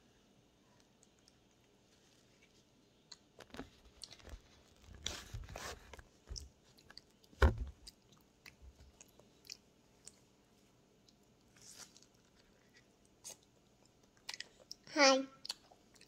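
A child biting and chewing soft soursop fruit close to the microphone: scattered wet mouth clicks and smacks. A loud thump comes about seven seconds in, and a short vocal sound from the child near the end.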